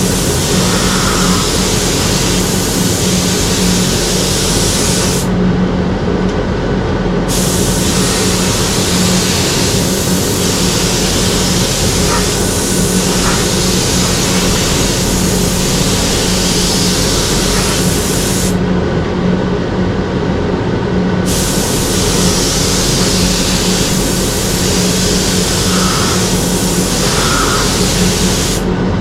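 Spray gun hissing as it sprays Cerakote at full air. The hiss stops twice for about two seconds and starts again, while a steady low hum runs underneath.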